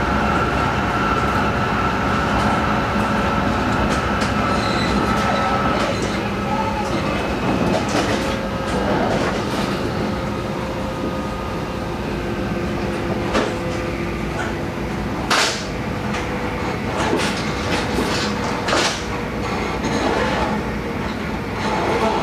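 Tohoku Shinkansen running at speed, heard from inside the passenger car: a steady rumble of wheels and rushing air. A faint high whine fades out about six seconds in. Several short sharp knocks cut through the rumble, the loudest about fifteen seconds in.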